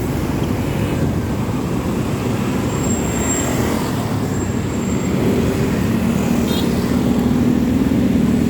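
Road traffic heard from a moving bicycle: a steady low rumble of vehicles, with one motor vehicle's engine hum growing louder over the last couple of seconds.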